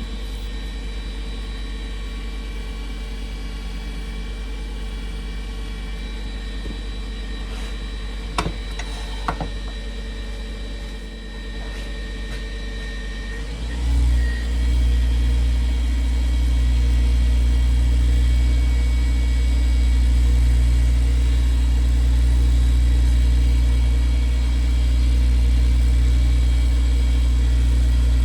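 Workshop machine motors running steadily, with a couple of light clicks. About halfway through, a louder, deeper-running machine starts up and keeps running.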